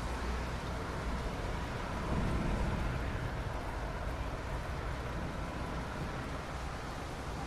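Soft rain falling steadily on asphalt, an even hiss over a low rumble that swells briefly about two seconds in.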